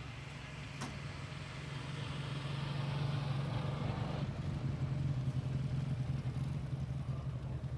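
Car engine running, growing louder over the first few seconds and easing slightly near the end, with a single sharp click about a second in.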